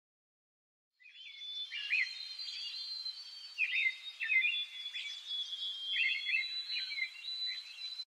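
Small birds chirping and twittering in a busy chorus of short, quick calls over a thin steady high note, starting about a second in after silence.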